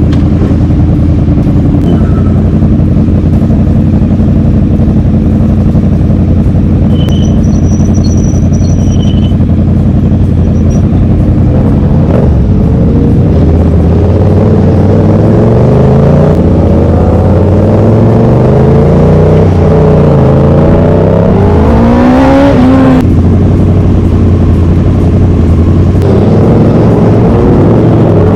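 A vehicle engine running at a steady idle, then revved up and down several times in the middle of the stretch before settling back to idle.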